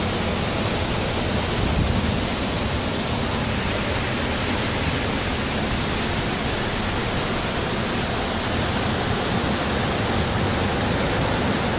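Steady, even rushing of strong storm wind, with no let-up or gusts standing out.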